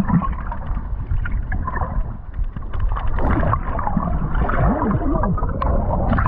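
Sea water sloshing and gurgling, with a steady low rumble.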